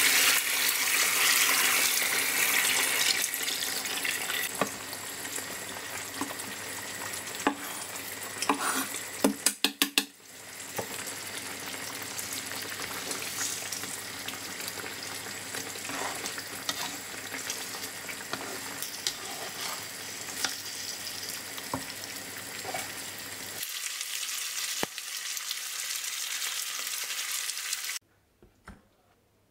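Chicken pieces sizzling as they fry in adobo sauce in a pan, a steady sizzle with scattered clicks and knocks. About nine seconds in there is a quick run of about six ticks, and near the end the sizzle cuts off suddenly.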